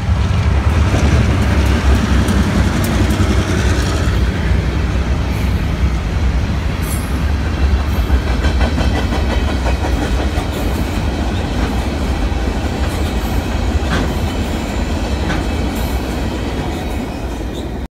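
Freight train passing at close range: a steady, deep rumble of locomotive and cars rolling on the rails, with a few sharp clicks of wheels over rail joints. The sound cuts off suddenly near the end.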